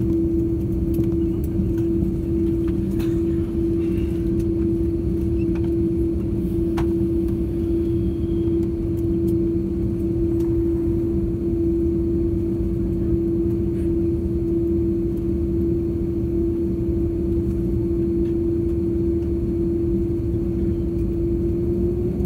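Jet airliner's engines at low power heard from inside the cabin: a steady low rumble under a strong, steady hum, with a few faint clicks.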